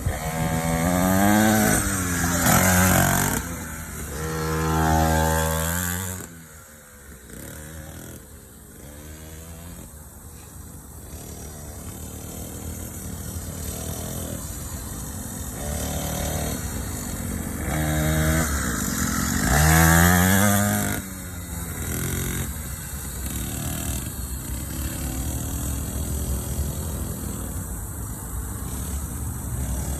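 Small 50cc kids' dirt bike engine revving up and dropping back several times, with quieter, steadier running between the revs.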